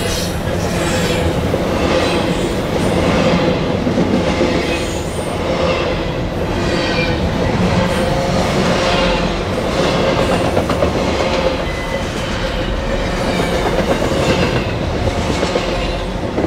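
Loud, steady rolling noise of a BNSF double-stack intermodal train's well cars passing close by: steel wheels running on the rail.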